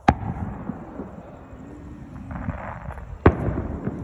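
Aerial fireworks exploding: two loud booms about three seconds apart, with rumbling between them.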